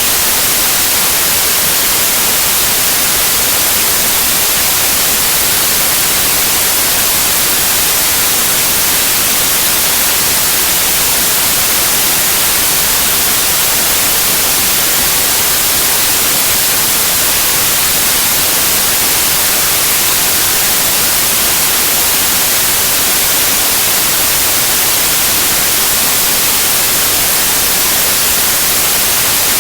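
Steady white noise: an even, unchanging hiss with no events.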